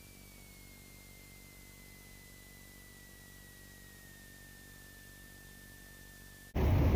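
Faint steady hiss with a thin whine that slowly falls in pitch, as on a light aircraft's intercom feed. About six and a half seconds in, loud airplane engine and cabin noise cuts in suddenly.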